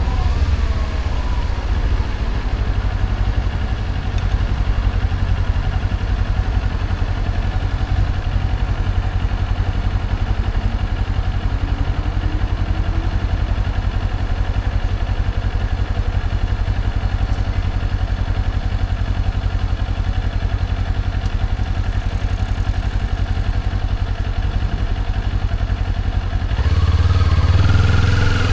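Motorcycle engine running steadily while riding. Near the end it gets louder and climbs in pitch as the bike accelerates.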